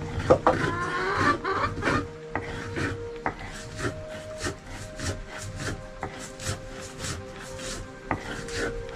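Rhythmic rasping strokes, about two a second, like something being scraped or filed.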